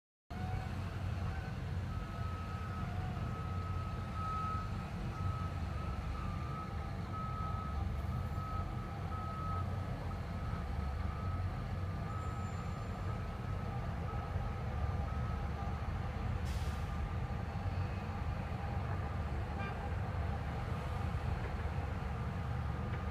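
Heavy excavation machinery's diesel engines running steadily with a low rumble. A backup alarm beeps from about two seconds in until about sixteen seconds. A single sharp clank comes shortly after.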